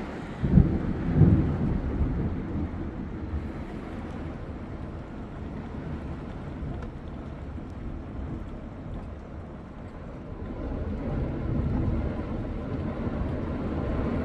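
Thunder rumbling over heavy rain, loudest in the first two seconds and swelling again near the end.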